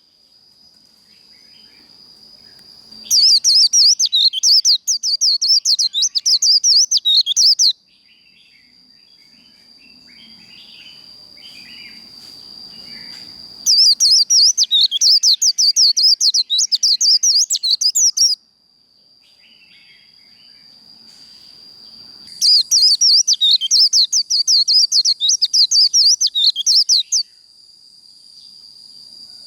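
White-eye (vành khuyên) singing its rapid, chattering 'líu' song in three bursts of about four to five seconds each. A faint steady high tone fills the pauses between the bursts.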